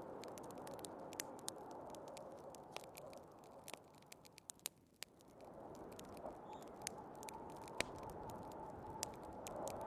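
Wood fire crackling with scattered sharp pops, over a steady rush of storm wind that drops away about halfway through and then swells back with a faint howl.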